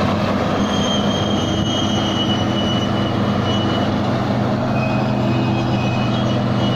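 Tai Seng rice combine harvester's engine running steadily under heavy load while the machine works through deep mud, its wheels sunk in, with thin high-pitched squeals from the running gear coming and going over it.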